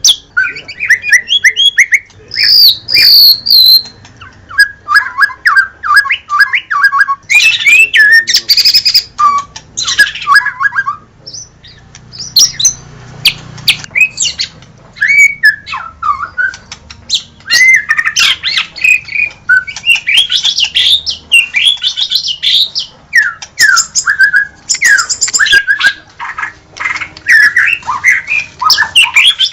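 White-rumped shama (murai batu) singing a fast, varied song of whistled and chattering phrases with sharp clicks, with a brief lull about halfway through.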